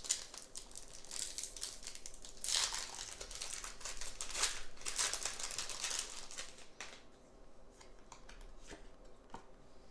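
Thin plastic packaging crinkling and rustling as trading cards are handled, with the densest crinkling in the first seven seconds, then fainter rustles and small clicks.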